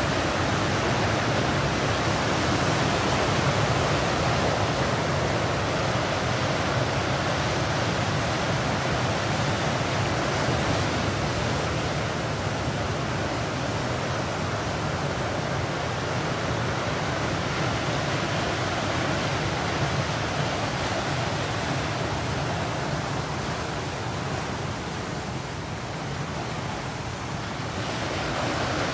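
Ocean surf breaking and washing on a beach: a steady, continuous rush that eases about 25 seconds in and builds again near the end.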